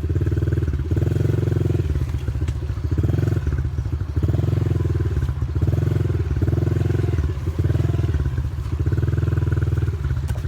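Small dirt bike engine pulling through thick mud. The throttle is worked in repeated short bursts, so the engine swells and eases about once a second.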